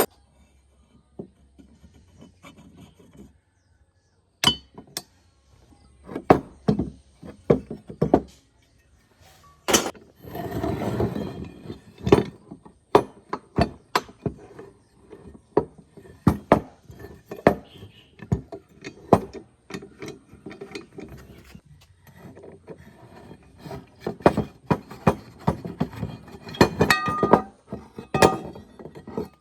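Metal machine parts and hand tools being handled: irregular clinks, taps and knocks, with a short stretch of rubbing or scrubbing noise about ten seconds in and a few ringing metallic clinks near the end.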